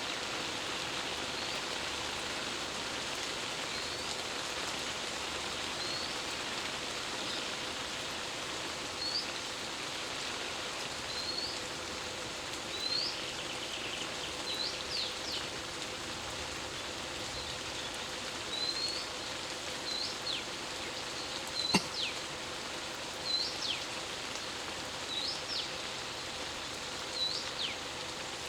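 Steady rain, with a bird calling over it again and again: short upswept whistles every second or two, some followed by a quick falling note. A faint steady hum runs underneath, and a single sharp click comes about two-thirds of the way through.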